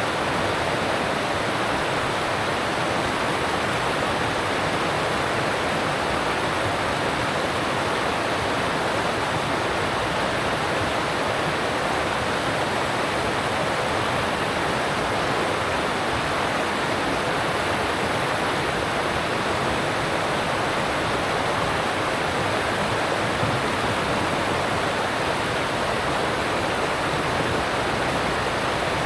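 Alpine stream rushing over rocks: a steady, even roar of water with no breaks.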